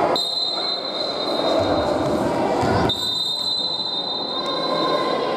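A high-pitched steady signal tone sounds twice back to back, each lasting about two and a half seconds, with a brief break between them, over sports hall background noise.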